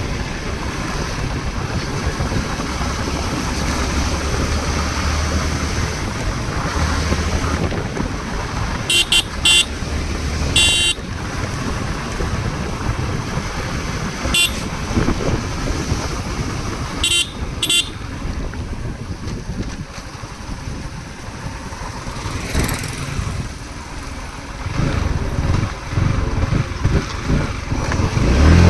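Steady motor-vehicle noise with a low rumble, broken by a handful of short, high beeps of a vehicle horn between about nine and eighteen seconds in.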